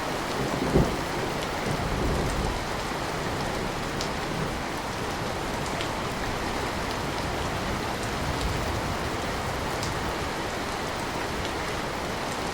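Steady rain with scattered drop ticks. About a second in, a low thud of thunder rumbles and fades over the next couple of seconds, leaving the rain alone.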